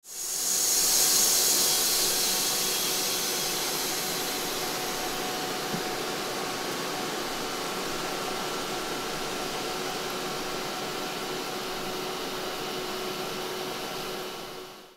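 Train of a Trenitalia E464 electric locomotive and a Blues hybrid unit at the platform: a loud, steady rushing noise with a constant mechanical whine, strongest in the first couple of seconds. The sound cuts off suddenly at the very end.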